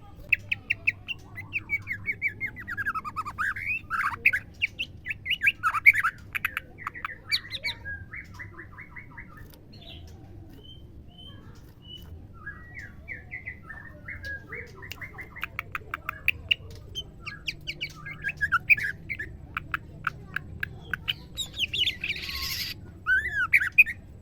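Female white-rumped shama calling: quick chirps and downward-sweeping notes in dense runs, a short buzzy stuttered phrase, a quieter lull in the middle, then more chirping and a harsh rasping burst near the end.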